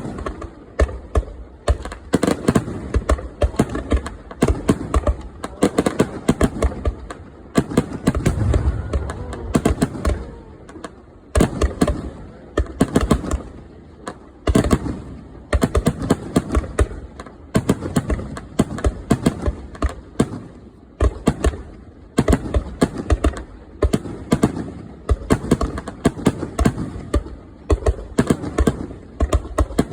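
Aerial firework shells bursting in rapid succession: a dense barrage of sharp bangs and crackling, with low booms rolling between them.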